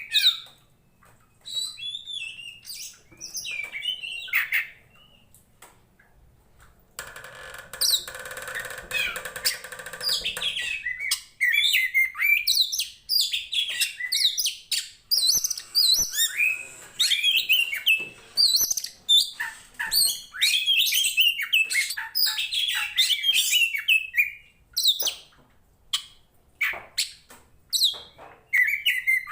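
Oriental magpie-robin (kacer) singing: varied whistled notes and chirps, sparse at first, with a harsh buzzing stretch about seven seconds in, then a dense, fast run of song through the middle and short scattered calls near the end.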